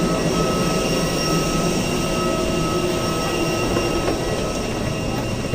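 Steady airliner cabin noise: a constant rush of engine and airflow noise with a few faint steady whining tones over it.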